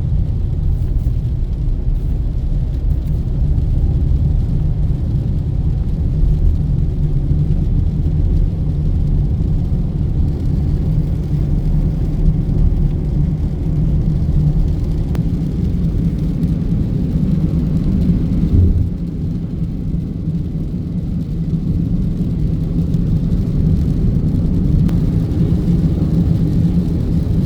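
Car driving on the highway, heard from inside: a steady low rumble of engine and tyre noise. The rumble dips briefly about two-thirds of the way through.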